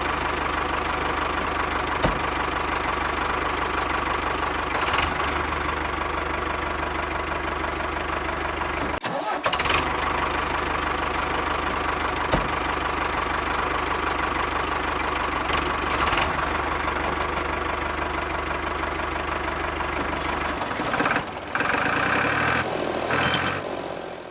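Small electric motor in a homemade model running steadily with a buzzing hum, with a few sharp clicks and a brief drop-out about nine seconds in.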